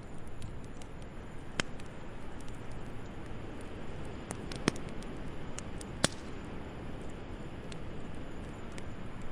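Wood fire crackling in a fireplace: a steady low rustle with scattered sharp pops, the three loudest at about one and a half, four and a half and six seconds in.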